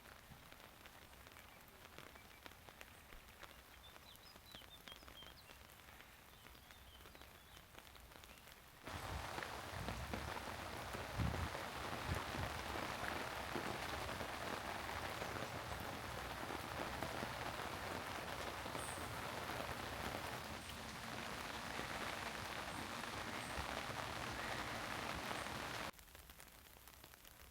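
Rain falling and pattering steadily. About nine seconds in it jumps suddenly much louder, with a few low thumps, then drops back abruptly near the end.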